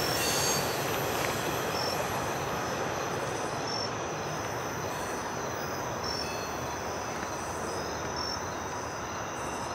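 Rolling noise of a freight train's autorack cars passing and receding, slowly fading, with insects chirping faintly and high-pitched in the background.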